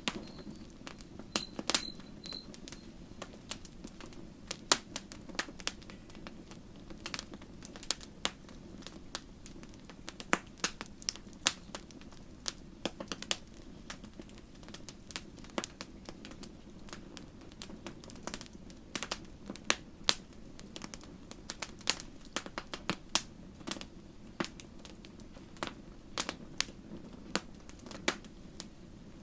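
Campfire crackling: sharp, irregular pops and snaps, sometimes several close together, over a steady low background of the burning fire.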